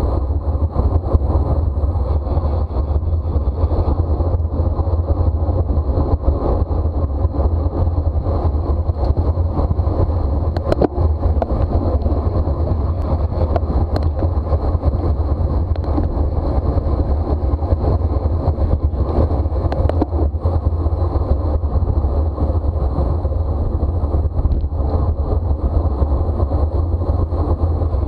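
Steady wind rush buffeting the microphone of a camera on a bicycle racing at speed, a loud low rumble with a faint thin whine above it and a couple of brief ticks.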